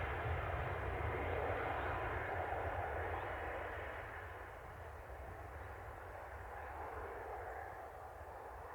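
Boeing 787 airliner's jet engines at taxi power, a steady rushing noise over a low rumble that fades somewhat after about four seconds.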